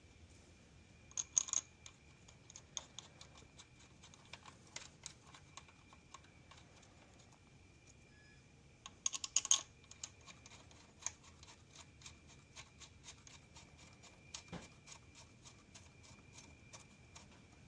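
Light metallic clicks and taps of a connecting rod bearing cap being fitted onto its rod and the rod nuts threaded on by hand, with louder clusters of clicks about a second in and again about nine seconds in.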